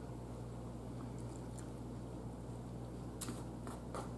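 Quiet chewing of a mouthful of black-eyed peas and cabbage, over a steady low hum. Near the end come a few light clicks of a fork against a plate.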